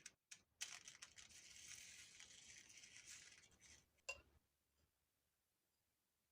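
Close-miked ASMR trigger sound: a couple of light taps, then a continuous scratchy, crackly rustle for about three seconds, ending with a single click.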